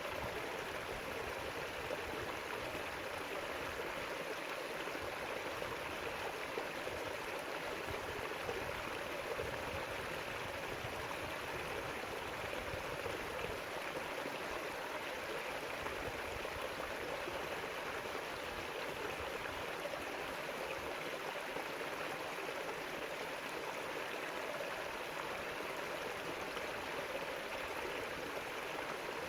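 A river's water running steadily over stones, an even rushing and gurgling with no breaks.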